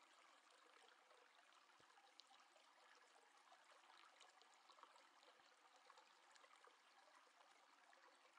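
Near silence: faint steady hiss of room tone with a few soft ticks.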